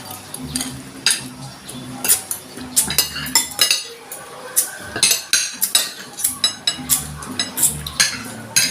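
Spoon and fork clinking and scraping against a plate during a meal, many sharp clinks in quick irregular succession.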